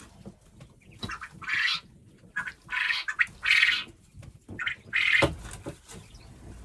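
Penned game birds, likely pheasants, giving harsh squawks in four short, loud bursts. A dull thump comes with the last burst, about five seconds in.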